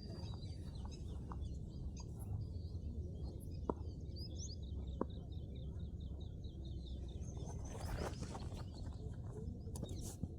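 Small birds chirping, with a quick run of short, repeated high chirps in the middle, over a steady low rumble. Two sharp clicks come about a second apart partway through.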